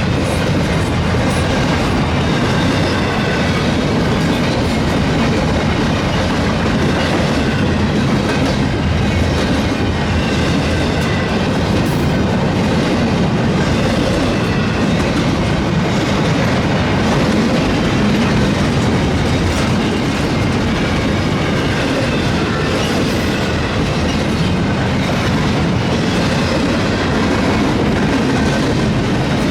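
Freight train cars rolling past at close range: a steady, loud rumble with wheels clattering over the rail joints and a faint high squeal from the wheels.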